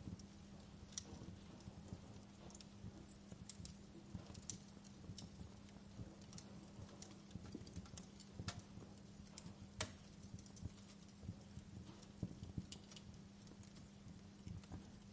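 Wood fire crackling: irregular sharp pops and snaps over a low rumble of the flames, with two louder pops about two-thirds of the way through.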